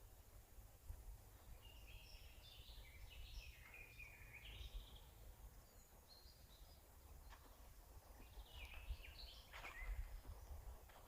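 Faint birdsong: two bouts of quick, twittering notes, the first about two seconds in and the second near the end, over a steady low rumble.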